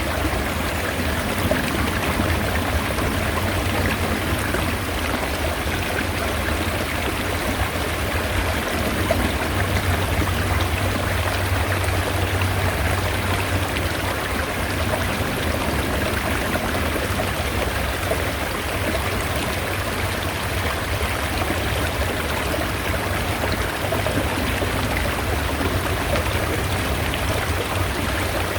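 Mountain stream water running steadily: an even, unbroken rush with a strong low-end rumble.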